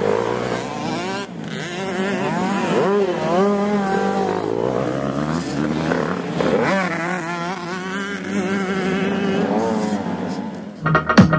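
Several motocross dirt-bike engines revving and running at once, their pitches rising and falling over one another. A loud electronic music beat cuts in near the end.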